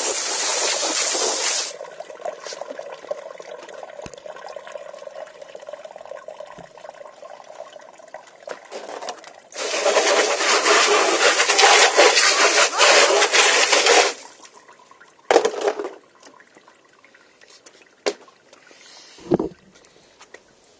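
1/10-scale RC short course truck running, with two long bursts of loud rushing noise and a quieter steady hum between them, then a few short bursts near the end.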